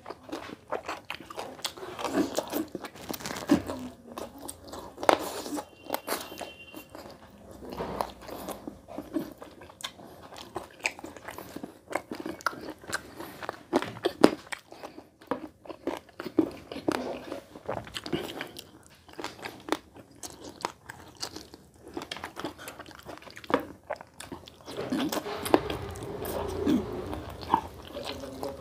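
A man chewing and biting chicken curry and rice eaten by hand, close to the microphone: wet mouth sounds with irregular sharp smacks and crunches.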